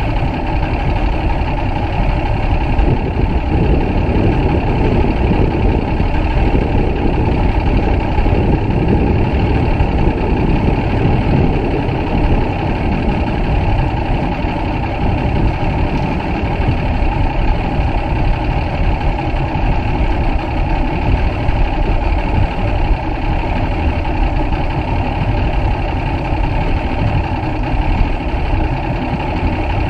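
A bass boat's outboard motor running steadily, most of its sound a low rumble.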